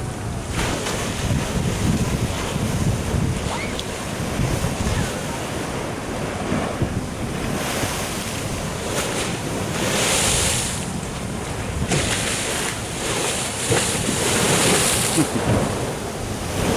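Surf washing against a sea wall, with louder hissing surges of water about ten seconds in and again a couple of seconds later, and wind buffeting the microphone.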